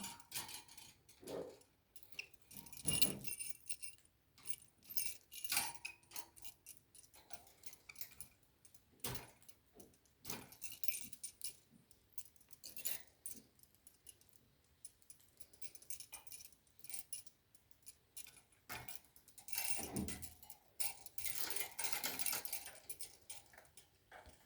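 Pet cockatiel moving about: irregular clicks, rustles and light metallic jingling throughout, with a short falling call about 20 seconds in.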